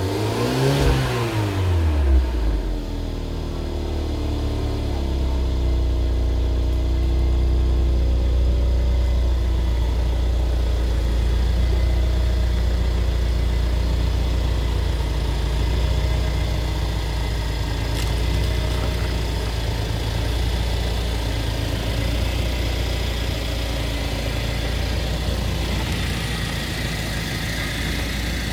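Mercedes-Benz GLA 250's turbocharged 2.0-litre four-cylinder engine, still cold from the start, revved once and then idling steadily. The rev rises and falls in pitch over the first two seconds before the engine settles.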